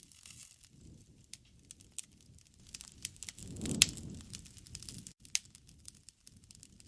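Wood bonfire crackling: many sharp pops over a low rumble of flame, which swells for about a second near the middle, where the loudest pop comes.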